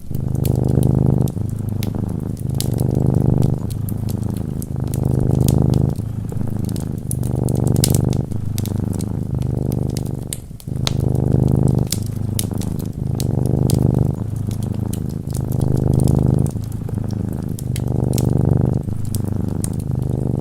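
Domestic cat purring close up, in waves that swell and dip about every two seconds with its breathing, over frequent sharp crackles of a wood fire.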